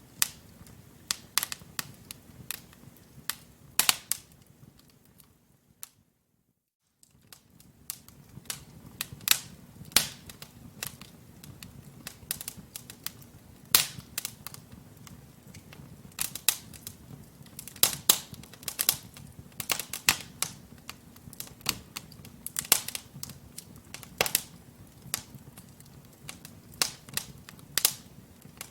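Wood logs burning in a fireplace, crackling with sharp, irregular pops over a faint low rush of the flames. About six seconds in, the sound drops out completely for roughly a second, then the crackling resumes.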